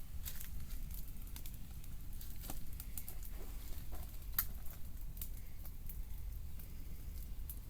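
Wood fire crackling: irregular sharp pops and snaps over a low steady rumble, the sharpest pop a little past the middle.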